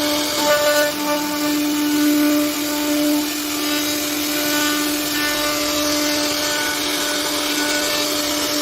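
CNC router spindle running at a steady high speed, cutting a carving into wood, with a constant high-pitched whine and hiss.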